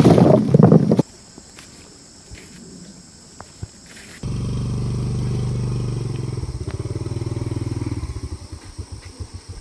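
A small engine comes in suddenly about four seconds in and runs steadily, its beat turning uneven and pulsing over the last few seconds. Before it, a loud rushing noise cuts off about a second in, followed by a few faint clicks.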